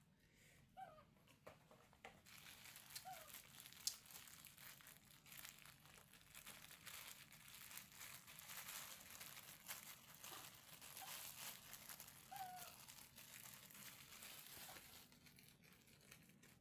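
Faint crinkling and rustling, like something being handled or crumpled, with a few short, faint squeaks.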